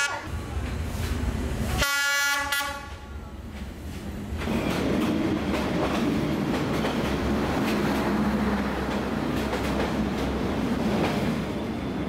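Diesel locomotive horn sounding once, briefly, about two seconds in, over the engine's rumble. Then the train's passenger carriages roll past close by with a steady rumble and repeated clacks of the wheels on the track.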